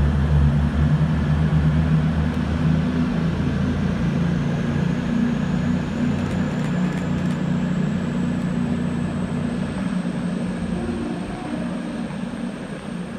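Class 220 Voyager diesel multiple unit pulling out, its underfloor diesel engines running under power with a steady low drone. The sound fades steadily as the train draws away, and a faint high whine rises slowly in the second half.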